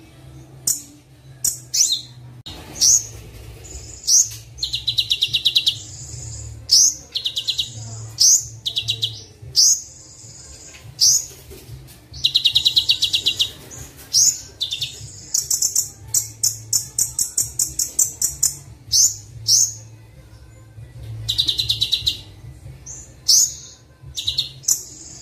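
Recorded songbird song of a Kolibri Wulung (sunbird) training tape: short bursts of high, rapid chirps and trills, one after another about every second, over a low steady hum.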